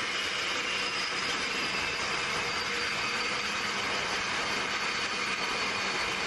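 Fighter jet engines running: a steady rush with faint high whining tones that slowly fall in pitch.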